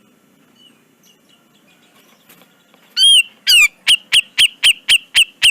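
Cucak jenggot (grey-cheeked bulbul) calling. About three seconds in, a loud series of sharp, down-slurred notes begins: two longer notes, then about seven quick ones at roughly four a second.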